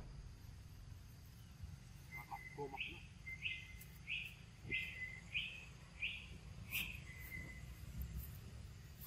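A bird calling a run of about seven short, evenly repeated high notes, roughly one every two-thirds of a second, over a steady low background rumble.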